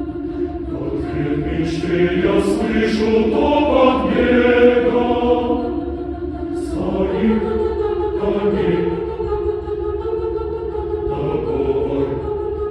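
A choir singing sustained chords, swelling louder about four to five seconds in and then easing back, with sung consonants hissing now and then.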